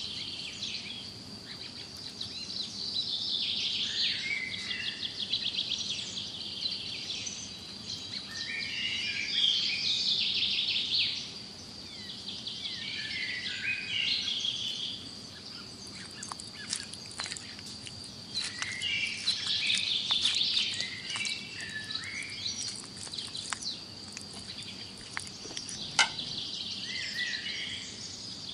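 Birds chirping and twittering in repeated bursts over a steady high-pitched whine, with a few light clicks in the second half.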